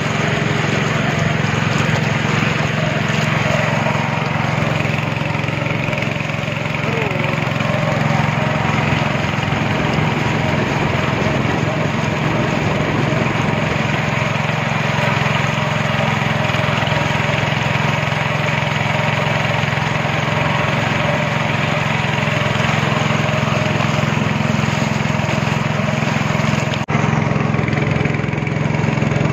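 Speedboat engine running steadily under way, a constant loud drone with a rushing noise over it. There is a brief sharp break in the sound near the end.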